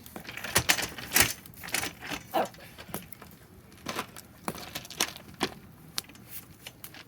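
Wood fire in a fire pit crackling, with sharp, irregular pops and snaps.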